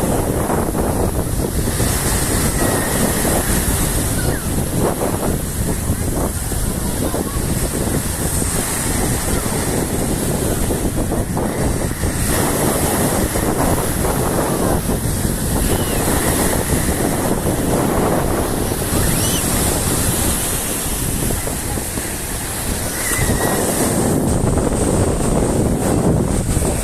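Black Sea surf breaking on the shore in a continuous wash, with wind buffeting the microphone.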